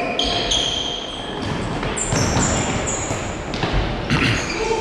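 Mini-football match in a sports hall: a ball thudding off feet and the floor a couple of times, with short high squeaks of shoes on the court floor, all echoing in the large hall.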